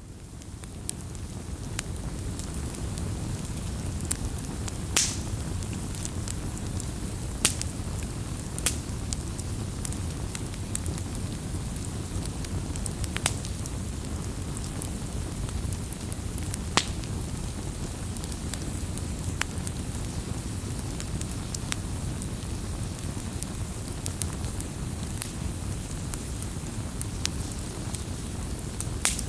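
Firewood burning: a steady low rumble and hiss of the fire, with sharp crackles and pops every few seconds. It fades in over the first couple of seconds.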